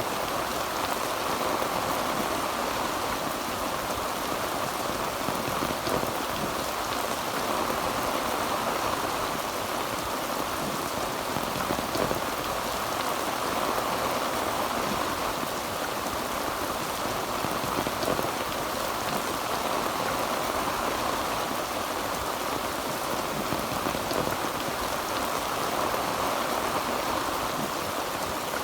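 Heavy rain falling steadily on a tin roof, a dense even patter of drops with no thunder.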